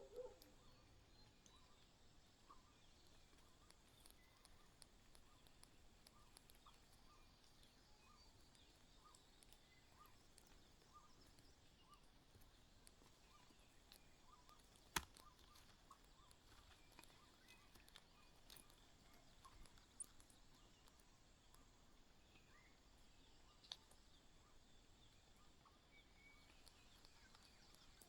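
Near silence: faint outdoor background with many faint short chirps and a few sharp clicks, the loudest about halfway through.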